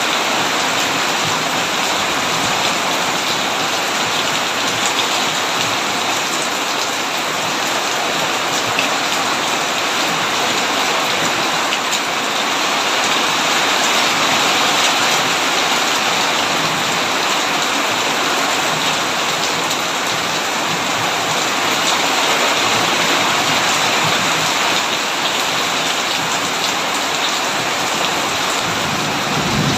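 Heavy rain falling steadily on a tin roof: a dense, even downpour.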